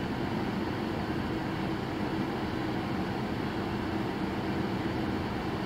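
Steady, unbroken hum of a stopped car's engine idling, heard from inside the cabin.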